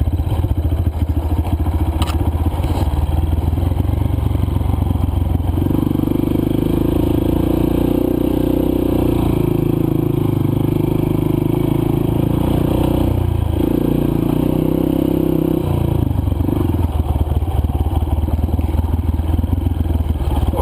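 Single-cylinder four-stroke dirt bike engine running while riding a trail, the engine note rising and holding higher from about six seconds in, then dropping back after about sixteen seconds, with rattling and scraping from the bike over the ground.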